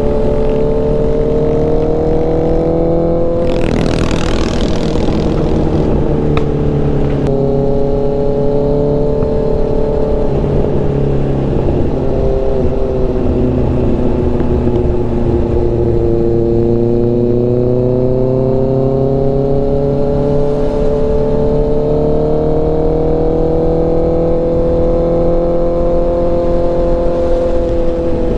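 Honda CBR650F inline-four engine running under way, its pitch slowly rising and falling with throttle, over constant low wind rumble. A brief hissing rush comes about four seconds in.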